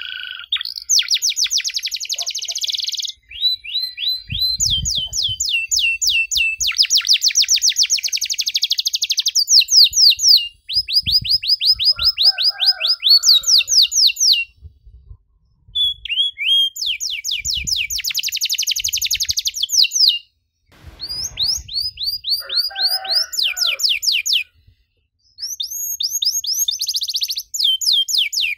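Domestic canary singing a long, loud song of fast trills: runs of rapid repeated high notes that change pace and pitch from one run to the next, broken by two short pauses.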